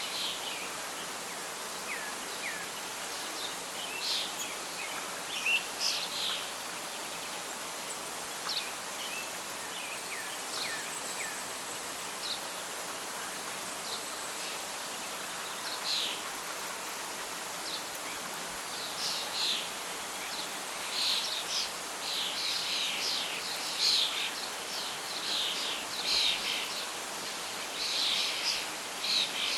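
Birds chirping and calling over a steady background hiss of wind or rustling leaves, the calls sparse at first and coming thicker and busier in the second half.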